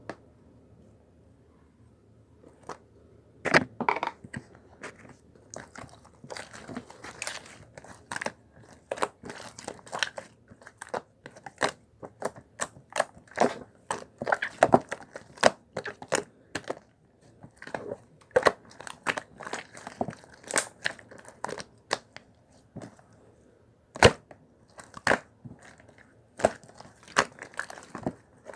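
Green toy slime being squeezed and kneaded by hand, making irregular sticky pops and crackles, several a second, starting a few seconds in.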